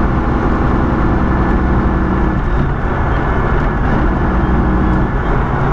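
Diesel semi-truck engine running at highway speed, heard inside the cab with road and wind noise. The engine note shifts about two and a half seconds in.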